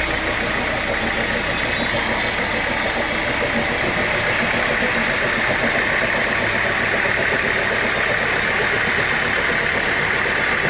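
Sawmill machinery running steadily with a constant mechanical noise; the high hiss drops away a little over three seconds in.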